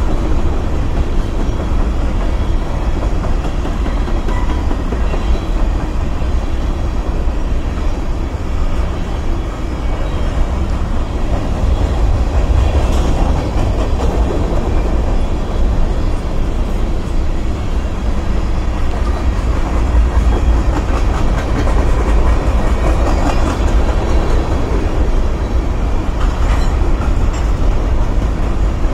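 Covered hopper cars of a freight grain train rolling past: a steady, loud rumble of steel wheels on the rails with a clickety-clack over the rail joints.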